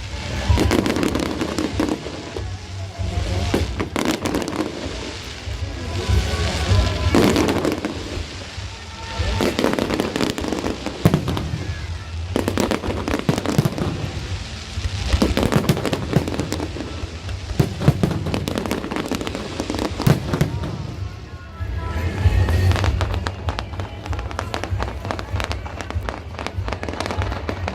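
Fireworks display: shells bursting with repeated bangs and crackling, coming in waves, with music playing alongside.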